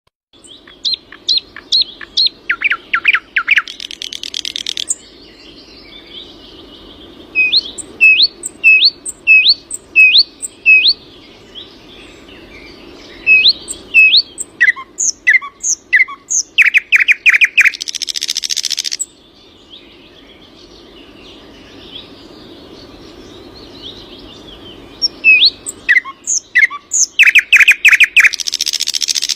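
A songbird singing three long phrases, each a run of quick repeated chirping notes that builds into a loud, dense, buzzy trill, with short pauses between phrases.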